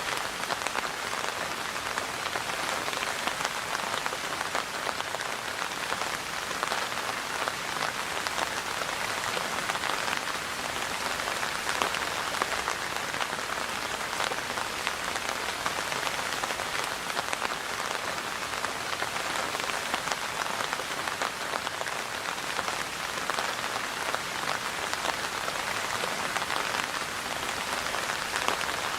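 Steady rain falling, a dense even patter of drops on surfaces with no letup.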